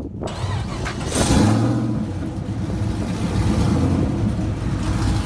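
Car engine that revs up sharply about a second in, then keeps running steadily at speed.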